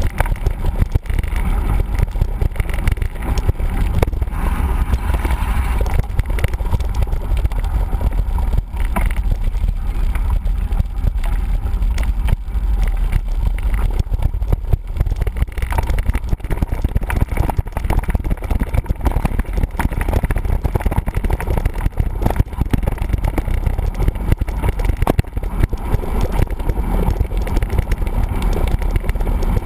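Mountain bike riding over rough ground, heard from a camera on the bike or rider: a steady low wind rumble on the microphone with rapid rattling and knocking from the bike.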